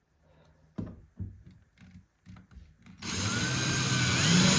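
A few light knocks and clicks of parts being handled, then about three seconds in a power drill starts up and runs loudly, its whine rising in pitch near the end, while fastening hardware into the bed frame.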